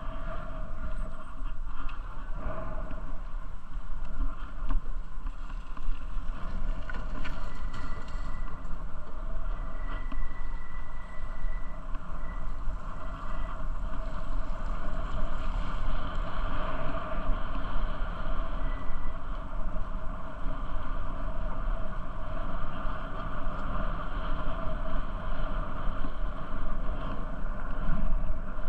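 Steady rumbling noise of a bicycle ride, with wind buffeting the microphone. A faint high, whistle-like tone comes and goes briefly in the middle.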